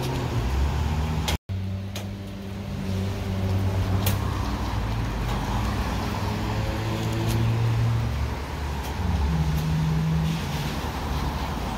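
Low vehicle rumble with a hum that shifts in pitch a few times, from a train approaching in the distance on the Northeast Corridor. The sound drops out for an instant about a second and a half in.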